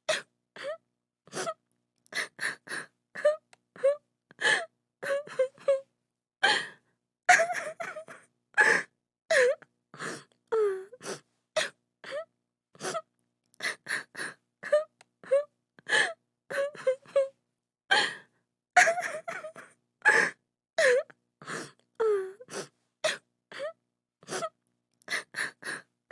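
A woman crying: short sobbing breaths and gasps, some with a wailing, falling pitch, broken by silent pauses.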